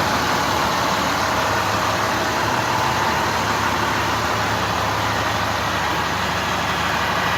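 Bucket truck engine idling steadily.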